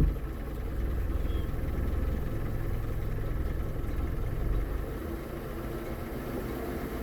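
Yamaha F200 four-stroke outboard running in reverse gear. It gets louder about a second in as it is given more throttle, and eases back near the five-second mark. This is the load at which the owner hears a bang he takes for a secondary engagement in the lower unit.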